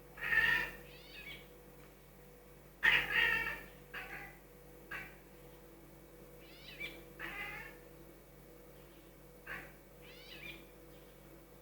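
Domestic cat giving a string of short meows and chirping, chattering calls, about eight in all, the loudest near the start and about three seconds in. This is the sort of talk a cat makes at birds it is watching.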